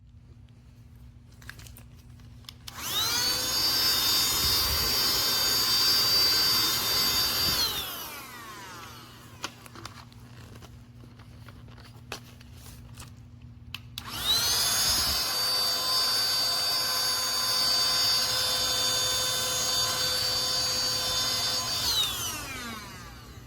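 SIMWAL cordless handheld vacuum switched on twice: its small high-speed motor whines up to speed, runs steadily for about five and then eight seconds, and spins down with a falling whine each time it is switched off.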